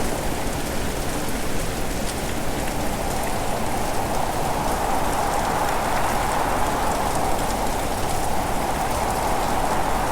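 Steady heavy rain, a constant hiss with many small drop patters through it.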